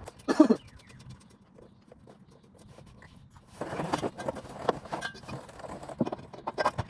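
Irregular metal knocks and clinks of car suspension parts being handled and turned around, coming thick and fast in the second half after a single sharp sound about half a second in.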